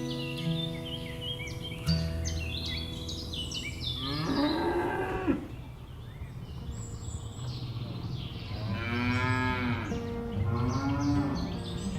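Cattle mooing: three long calls, one about four seconds in and two close together near the end.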